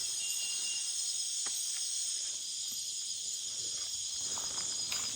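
Night-time Amazon rainforest insect chorus: a steady, high-pitched, shrill buzzing and trilling of many insects at once, with a few faint scattered clicks beneath it.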